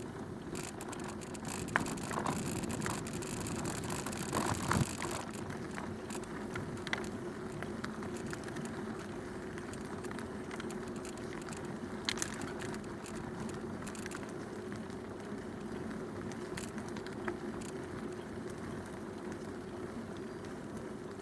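Bicycle rolling along a canal towpath: steady tyre and drivetrain noise with frequent small clicks and a rattle from the bike, louder clattering about two and four to five seconds in.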